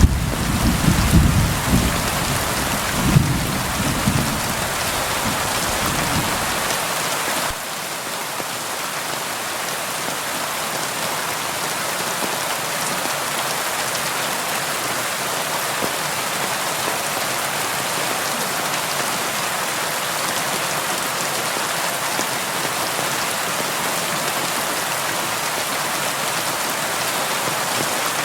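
Steady rain falling on window glass, an even hiss. Rolling thunder rumbles low under the rain for the first six or seven seconds, then fades, leaving the rain alone.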